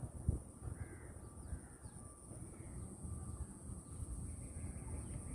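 A bird calling several times in short, arching calls, over a steady low rumble and a constant high-pitched hiss.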